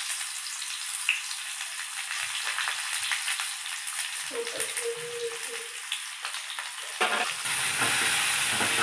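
Sliced onions frying in hot oil in a kadhai, a steady crackling sizzle. About seven seconds in, a louder, fuller sizzle takes over from vegetables cooking in a second pan.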